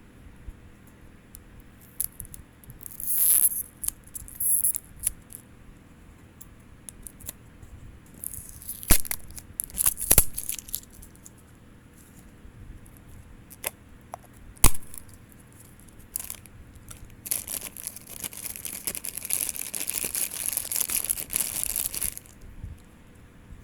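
Packaging being torn open and crinkled, in several bursts with a longer stretch of rustling near the end, broken by a few sharp clicks of handled plastic.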